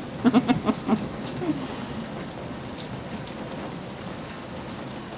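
Steady rain falling and splashing, a constant even hiss. In the first second a toddler's voice repeats a quick string of short syllables.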